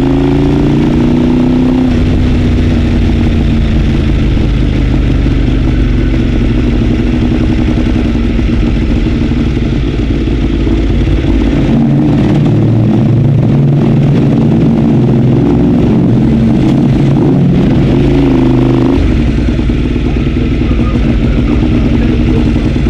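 Ducati 848's V-twin engine heard onboard, with wind noise. Its pitch rises, then drops about two seconds in and holds lower; from about twelve seconds the revs change in steps before dropping again near the end.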